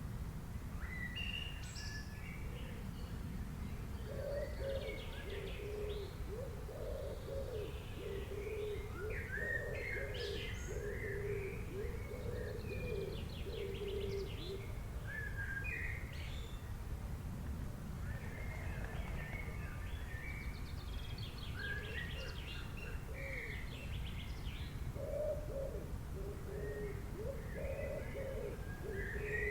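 Several birds chirping and singing in short, varied high phrases throughout, joined by lower cooing calls that repeat in runs, from about 4 to 14 s and again near the end. A steady low rumble of background noise runs beneath.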